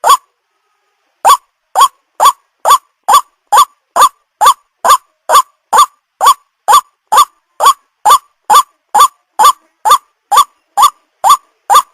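Recorded lure call of a white-breasted waterhen: a long run of short, loud notes, each rising slightly in pitch, repeated about twice a second after a brief pause near the start.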